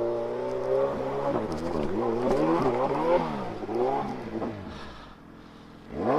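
Engine revving up and down repeatedly, its pitch rising and falling in quick swells, dropping quieter near the end.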